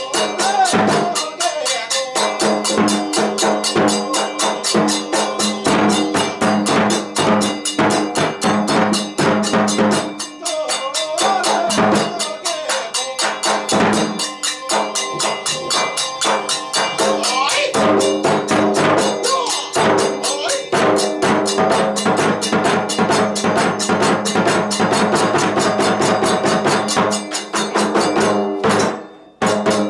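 Kagura festival music: fast, driving drumming with small clashing cymbals under a wavering flute melody. It breaks off abruptly just before the end.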